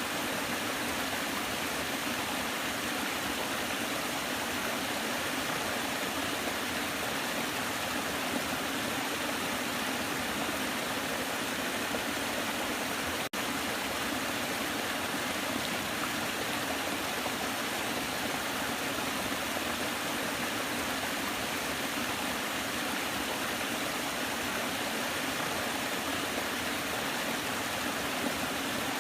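Waterfall: a steady, even rush of falling water, with a split-second dropout about halfway through.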